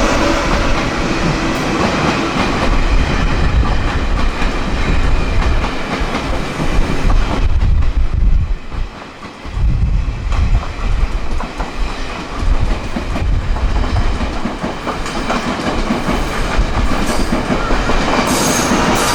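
A train running past on the rails, its wheels clacking over the rail joints with a steady rumble; the sound dips briefly about nine seconds in.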